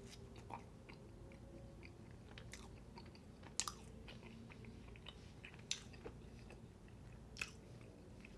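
A person chewing food close to the microphone: quiet wet mouth clicks and smacks, with three sharper smacks about three and a half, five and a half and seven and a half seconds in, over a faint steady low hum.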